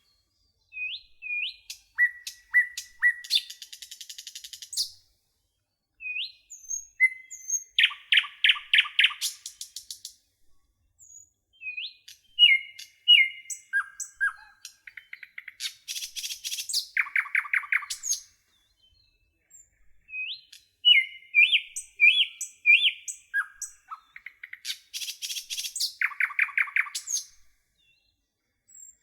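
Songbirds singing: short rising chirps and fast trills of rapidly repeated notes, in phrases broken by brief silent pauses.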